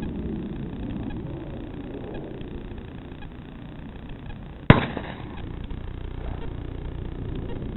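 A single shotgun shot about two-thirds of the way in, sharp with a short tail, over steady background noise.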